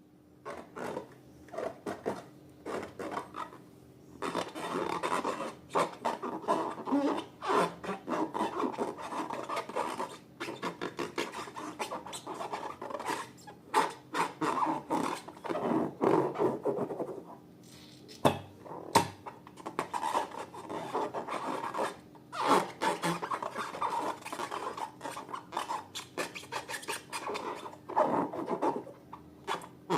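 Slime being worked and scraped, giving dense, irregular sticky crackles and rubbing strokes, with a brief lull about eighteen seconds in.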